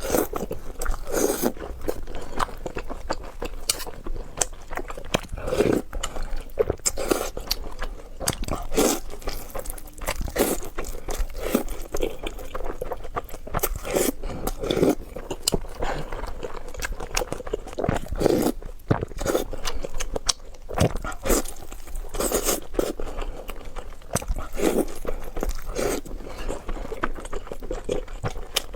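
Close-miked mukbang eating: a person biting and chewing food with crunchy, irregular bites and chewing sounds throughout.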